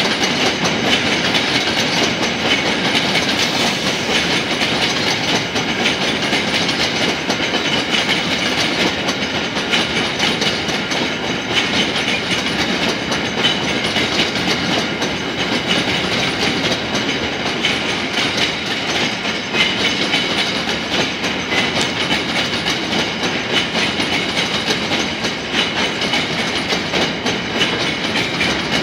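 Coal train wagons rolling past at close range: a steady rumble and rattle of wheels on the rails, with repeated clicks as the wheels cross the rail joints.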